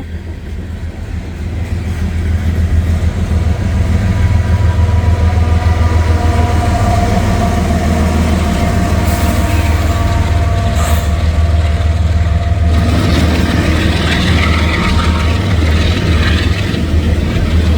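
A freight train's distributed-power diesel locomotive (DPU) passing close, its engine running with a steady deep drone and a faint whine. About 13 seconds in, a louder rushing wheel-and-rail noise from the following freight cars joins the drone.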